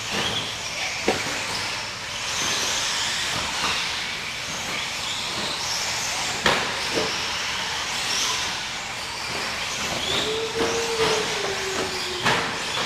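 A pack of 4WD radio-controlled short course trucks racing: the motors whine high, rising and falling as they speed up and slow down, over a steady hiss. There are a few sharp knocks, the loudest about six and a half seconds in.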